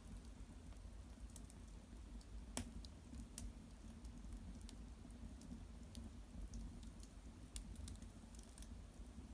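Small wood fire of cedar branches and bark crackling faintly: scattered sharp pops, with one louder crack about two and a half seconds in.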